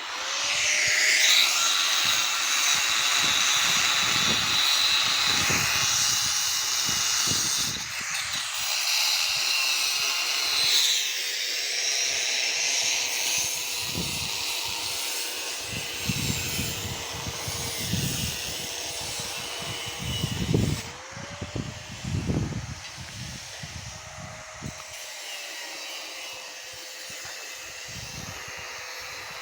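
Pipe welding work: a steady, loud hiss over a steady machine hum that dips and rises in pitch twice around twenty seconds in, with scattered low knocks.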